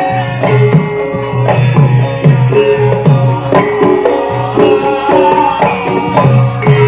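Javanese gamelan music for a lengger mask dance. Low kendang drum strokes, some bending in pitch, keep a steady rhythm under a melody played on metal keyed instruments.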